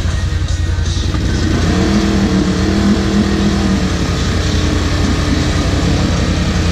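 Side-by-side UTV engine running under throttle with a steady low rumble; the revs rise about two seconds in and ease off again after about four seconds.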